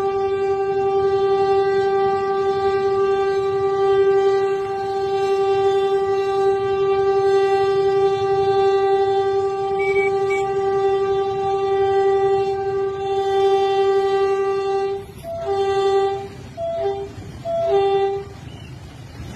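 Train horn sounding one long, steady blast of about fifteen seconds, then several short toots before it stops, over a low rumble.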